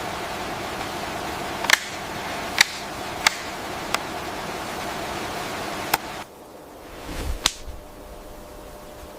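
Steady hissing outdoor ambience with a few sharp clicks, then it cuts to a quieter ambience about six seconds in, where a soft thump and one more click are heard.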